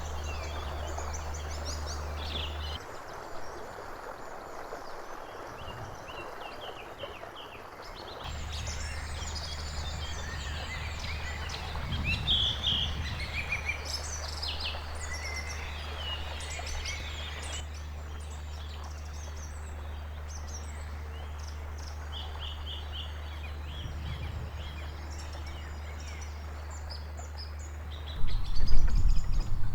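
Small birds singing and calling, many short chirps, over a steady low hum. A louder, rougher low noise comes in near the end.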